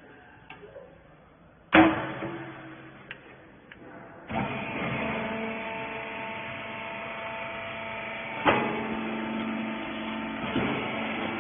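A small rag baler at work: a loud metallic clank about two seconds in, then the machine's motor and hydraulic pump start about four seconds in and run with a steady hum, broken by a couple more knocks.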